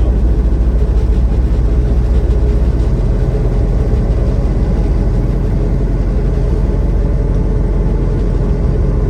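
Semi-truck's diesel engine and road noise heard from inside the cab, cruising at a steady speed: an even low rumble with a faint steady hum.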